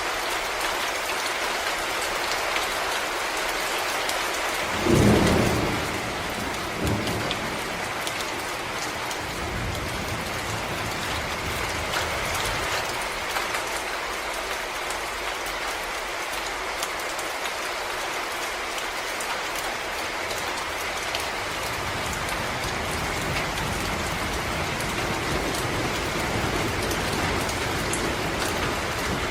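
Steady rain falling on forest leaves and ground. About five seconds in there is a brief, loud low rumble, and a softer one follows about two seconds later.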